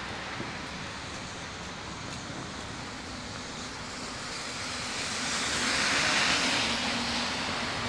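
Street traffic: a vehicle passes, its sound swelling to a peak about six seconds in and then fading, over a steady background of city noise.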